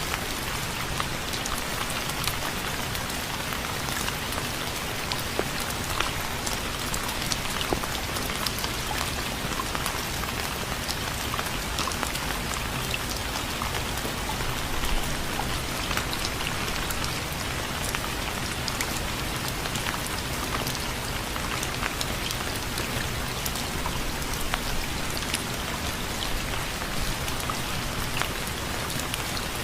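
Steady rain falling on a surface, a constant hiss dotted with the ticks of individual drops.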